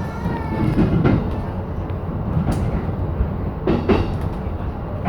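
JR E233 series 7000-subseries electric train running along the line: a steady rumble of wheels on rail, with a few sharp clicks as the wheels pass over rail joints.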